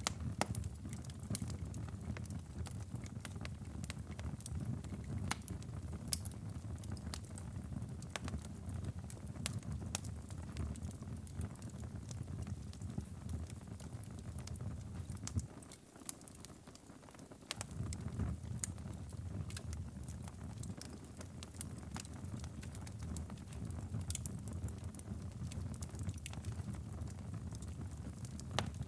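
Wood fire crackling and popping in a fireplace, with scattered sharp snaps over a steady low rumble. The rumble drops away for a couple of seconds about halfway through, then returns.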